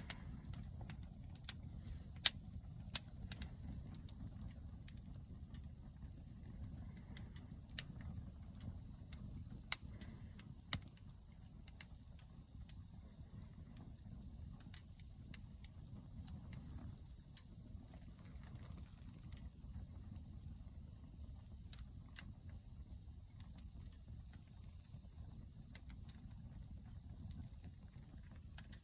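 Wood fire crackling, with irregular sharp pops and snaps, the loudest in the first ten seconds, over a low steady rumble.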